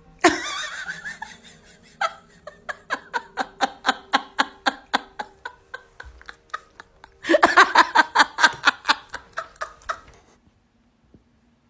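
A person laughing hard in rapid repeated bursts, loudest in a second fit of laughter about seven seconds in that dies away near the end.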